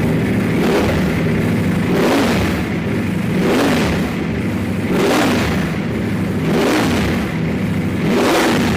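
Ducati V4 S motorcycle's V4 engine being revved repeatedly through its exhaust, about six blips of the throttle. Each rev rises and falls in pitch, one roughly every second and a half.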